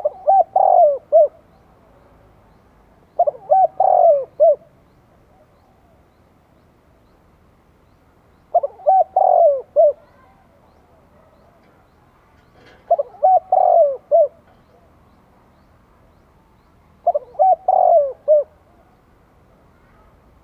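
Spotted dove cooing its multi-note call: five phrases about four seconds apart, each a quick run of short coos lasting just over a second. It is a male's decoy call, used to provoke wild doves.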